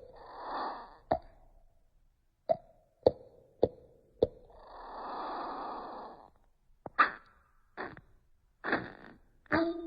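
A starling making a string of sharp clicking pops, some with a short tone, broken by breathy hissing rasps, one short and one of about a second and a half.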